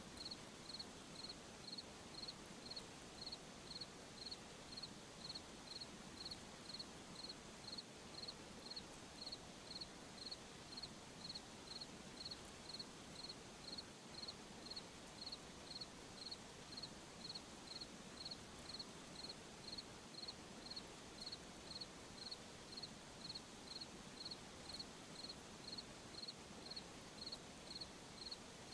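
A cricket chirping at night in an even, unbroken rhythm, about three short high chirps every two seconds, faint over a low background hiss.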